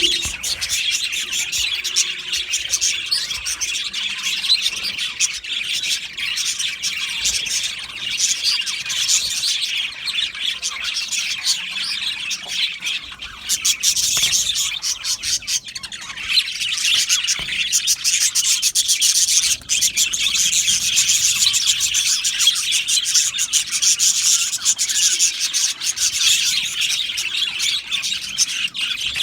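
A flock of budgerigars chattering and chirping together: a dense, continuous warble of many overlapping calls, getting louder about halfway through.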